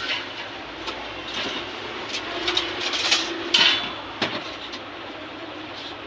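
Hand plane (randa) shaving down a glue-filled teak harmonium reed board to level it, in a handful of short, irregular scraping strokes, the loudest a little after the middle.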